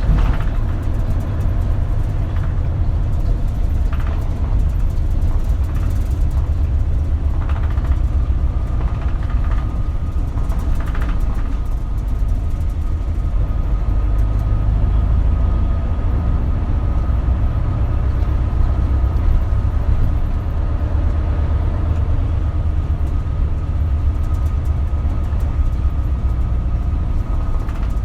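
Inside a KL-LV280L1 city bus under way: the engine and road make a steady low rumble. A faint steady whine comes in about a third of the way through, and there are a few light knocks.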